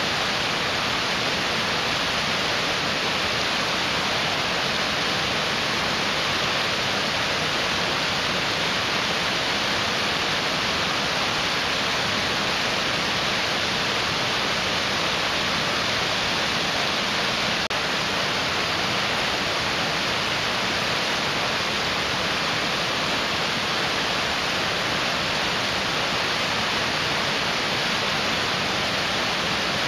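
Mountain stream rushing steadily over rocks: an even, unbroken wash of water noise.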